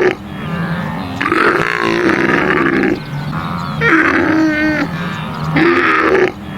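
An animal's calls repeating about every three seconds, a looped recording.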